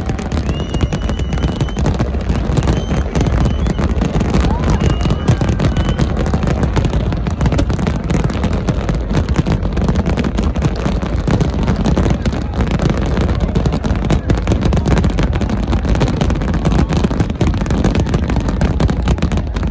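Large aerial fireworks display: a dense, unbroken barrage of shells bursting and crackling over a deep rumble of overlapping explosions, with a few short whistles in the first few seconds.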